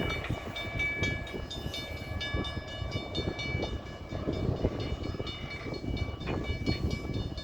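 CN freight train rolling past at a railroad crossing: a steady rumble of the railcars with irregular clanks and knocks from the wheels and couplers, over steady high-pitched ringing tones.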